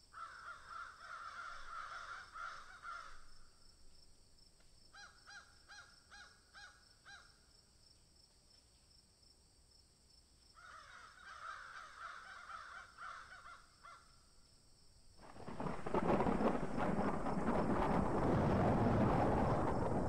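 Harsh bird calls in three bouts, the middle one a quick run of about six short notes. Three-quarters of the way through, a loud, even rumbling noise begins and drowns them out.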